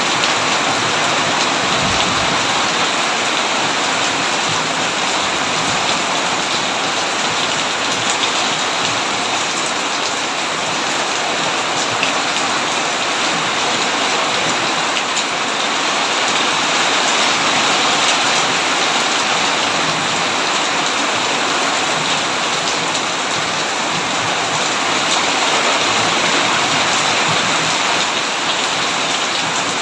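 Heavy rain falling steadily on a tin roof: a dense, even hiss with many small drop hits.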